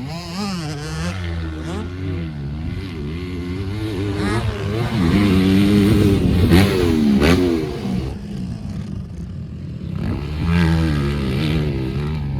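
Dirt bike engine revving up and down as it is ridden on a motocross track, the pitch repeatedly rising and falling with throttle and gear changes. It is loudest around the middle.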